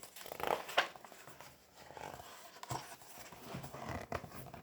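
Paper rustling with a few soft taps and clicks: the pages of a picture book being handled and turned close to the microphone.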